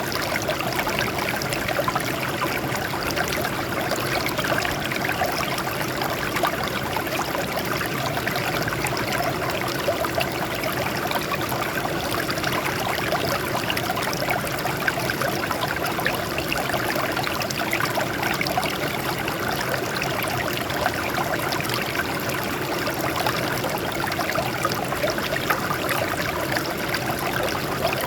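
Water running and splashing over rocks in a steady, unbroken stream.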